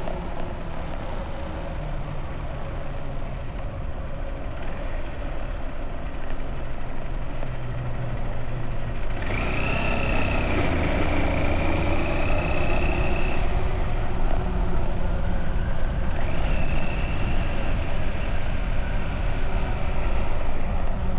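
Motorbike engine running steadily under way, with rushing road and wind noise. About nine seconds in the noise grows louder and a high steady whine comes in for a few seconds, then returns near the end.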